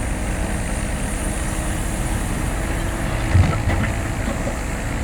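Heavy diesel machinery engine running steadily under load while working hard soil, with one heavy thump about three and a half seconds in and a few small knocks after it.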